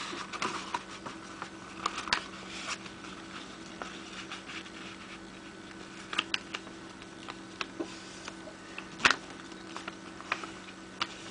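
Sheet of A4 paper being folded and pressed into creases by hand: scattered crinkles and taps, the sharpest about nine seconds in, over a faint steady hum.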